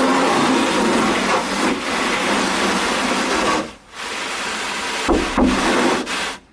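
Garden hose water spraying and drumming on the trunk lid and rear spoiler of a 1998 Ford Contour in a leak test, with a short break a little before the middle; the spray cuts off suddenly near the end.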